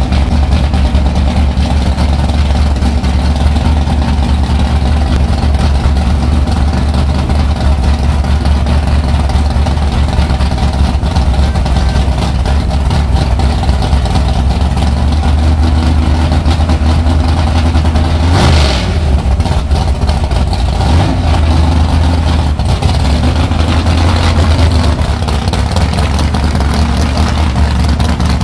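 American muscle car engine running loudly at a steady, deep idle, with a brief rush of noise about two-thirds of the way through.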